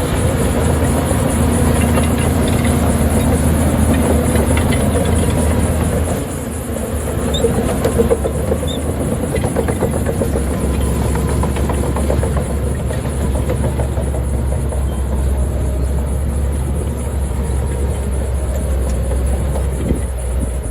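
Diesel engine of heavy earth-moving machinery running steadily under load, with metallic clanking and rattling over it. The engine sound dips briefly about six seconds in, then carries on.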